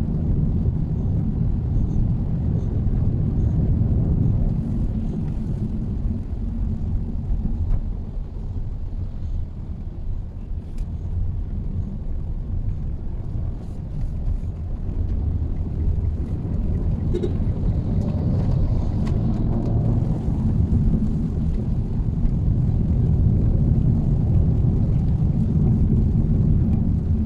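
Steady low road and engine rumble of a Mitsubishi Xpander being driven, easing somewhat in the middle and building again later on.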